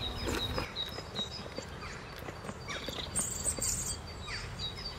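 Small birds chirping repeatedly in the background, short high notes with some sliding calls, and a brief high hiss about three seconds in.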